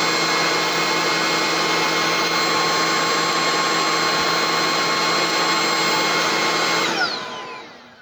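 Bissell ICONpet Turbo cordless stick vacuum running loud and steady with a motor whine. About seven seconds in it is switched off, and the motor winds down with a falling whine.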